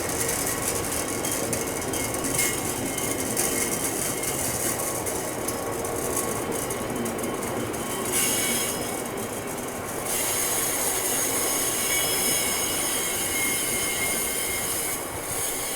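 Freight train wagons rolling past with thin, high-pitched wheel squeal over a steady running noise, easing a little about two thirds through and then coming back.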